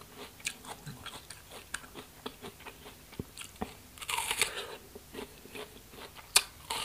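Chewing of crisp, juicy rose apple (wax apple), with small wet mouth clicks, then a crunchy bite into a fresh fruit about four seconds in and a sharp crunch near the end.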